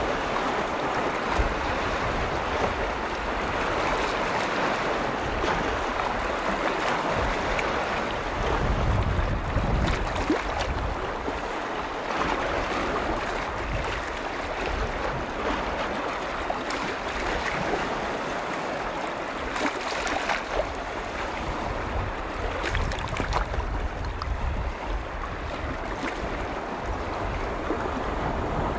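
Waves from Lake Vänern washing continuously onto the shore, with faint splashes and a low wind rumble on the microphone that swells about eight seconds in and again near the end.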